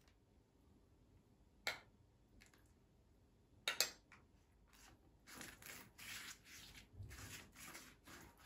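Household handling sounds: two sharp clicks about two seconds apart, then a run of short rustling or scraping strokes through the second half.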